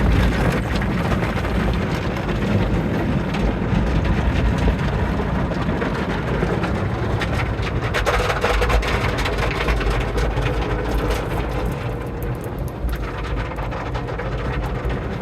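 Car wash water spray running steadily, a rushing hiss over a low rumble, rising a little about halfway through.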